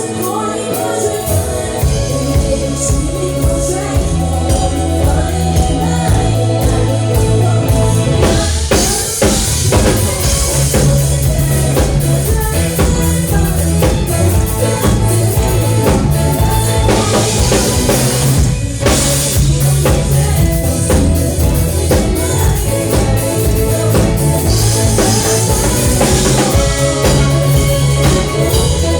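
Live band playing a song: a singing voice over drum kit and a low bass line, which join in with a steady beat about a second and a half in.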